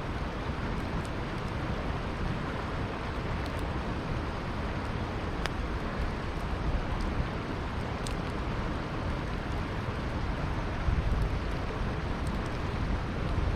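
Steady rush of a flowing river, with sparse sharp crackles and pops from a wood campfire every second or two.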